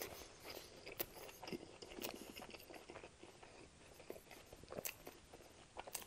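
A man chewing a mouthful of A&W Teen Burger with lettuce and bacon, close to the microphone: faint, soft wet chewing with light crunches and a few sharper mouth clicks.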